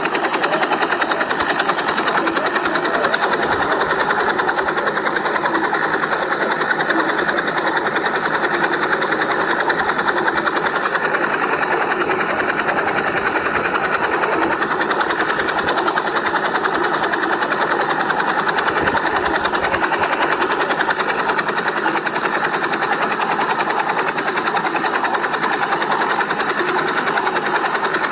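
A small motor running steadily close by, with a fast, even buzzing rattle.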